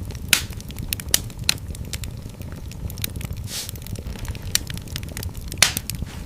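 Wood fire burning in a fireplace: a steady low rumble of flames with frequent small crackles and a few sharper pops, the loudest near the end.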